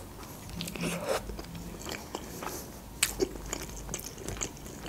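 Close-miked biting into and chewing a fried khinkali dumpling: irregular wet mouth clicks and smacks, with a sharper one about three seconds in.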